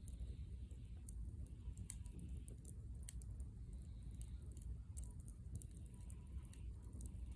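Wood campfire crackling: scattered sharp pops and snaps at irregular intervals over a low rumble.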